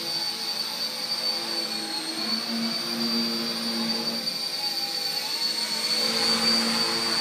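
RC Era C032 UH-1 Huey RC helicopter in flight: a steady high electric-motor whine over a humming rotor note that wavers slightly in pitch.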